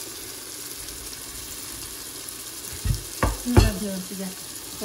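Tomato-onion masala frying in an aluminium pot with a low, steady sizzle. About three seconds in, a wooden spoon stirs it, knocking three times against the pot.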